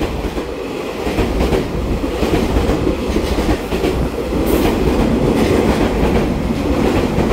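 Taiwan Railway EMU3000 electric multiple unit rolling along the platform, a steady rumble of wheels on rail with light clicks as the wheels cross rail joints, growing slightly louder.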